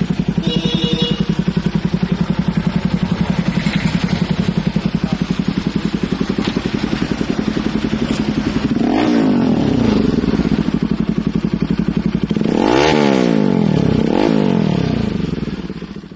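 Bajaj Pulsar NS200's single-cylinder engine idling through an aftermarket exhaust with a steady pulsing beat. It is revved briefly about nine seconds in, then harder around thirteen seconds, followed by a smaller blip, each time falling back to idle.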